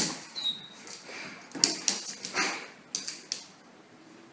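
Short animal calls from a pet: a loud one at the start, then a brief high whistle and about four more short calls over the next few seconds.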